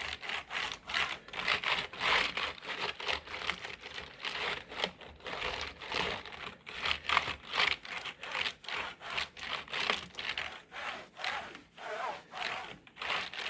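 A towel being rubbed back and forth over a computer keyboard's keys to dry them after wiping, in quick repeated strokes.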